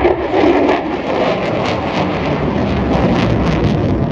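Loud, continuous jet noise from the F-35B Lightning II's single afterburning turbofan engine, with a rough crackle running through the middle.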